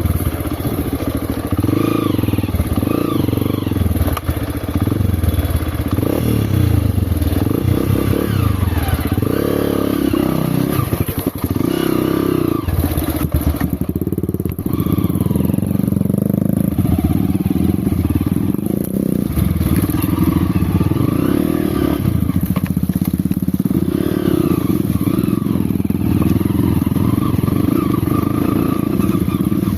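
Off-road dirt bike engine running at changing revs while being ridden, with occasional knocks and clatter.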